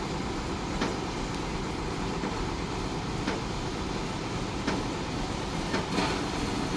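Heavy tow truck engines running with a steady low rumble as they take up the cables to pull a truck out of a river, with a few short sharp clicks or knocks.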